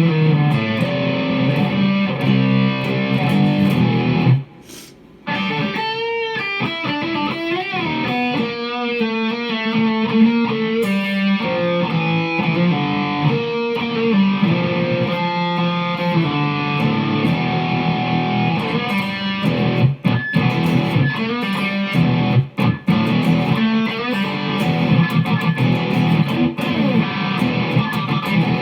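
Distorted electric guitar played through effects: held notes, then quick wavering runs of bent notes in the middle. The sound cuts out briefly about four seconds in.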